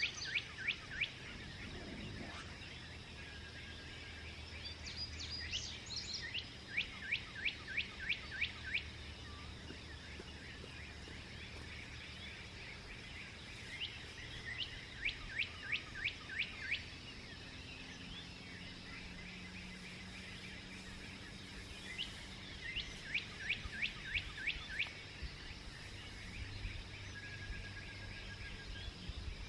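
Songbirds singing at dawn: one bird repeats a quick phrase of eight to ten sharp, downward-sliding notes about every eight seconds, with scattered softer chirps between, over a faint steady low hum.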